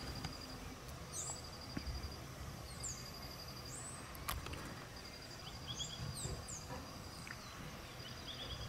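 Rainforest ambience: an insect trilling in high, pulsed runs that stop and start, with small birds giving brief high chirps scattered throughout. A single sharp click comes about four seconds in.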